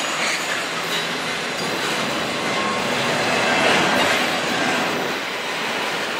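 Double-stack intermodal well cars of a freight train rolling past, their steel wheels running on the rails in a steady noise.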